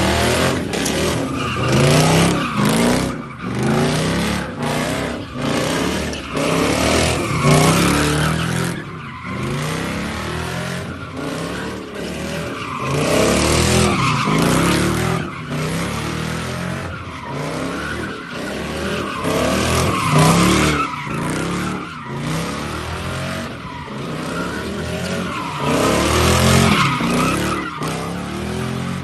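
Lexus SC400's 4.0-litre V8 on a loud aftermarket exhaust, revving up and falling back again and again while the tyres squeal and skid in a drift.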